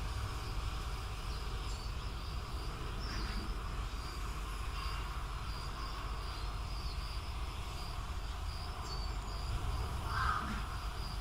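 High, steady insect chirping, broken into short pulses, over a constant low background rumble.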